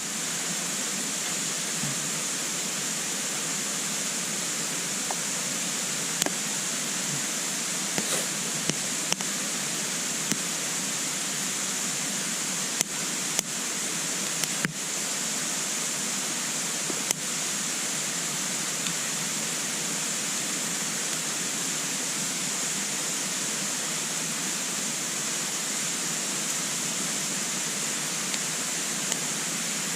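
Wood burning in a compact twig stove: sharp crackles and pops, most of them between about six and seventeen seconds in, over a steady hiss.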